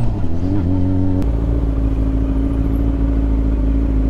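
Sport motorcycle engine easing off as the bike rolls to a stop, then idling steadily from about a second in.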